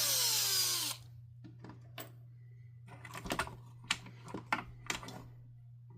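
Power drill-driver running and spinning down as it stops about a second in. Scattered light clicks and knocks of parts being handled follow, over a steady low hum.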